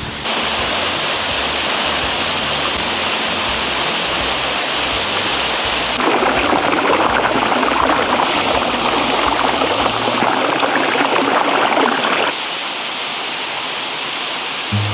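Waterfall rushing: a loud, steady noise of falling water, changing abruptly in tone about six seconds in and again about twelve seconds in.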